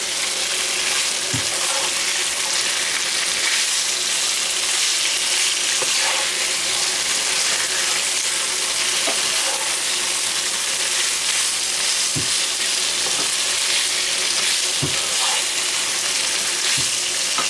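Pork with onions and bell peppers frying in a hot pan as it is stirred: a loud, steady sizzle, with a few light knocks of the utensil. The pan is hot enough that the food is starting to burn.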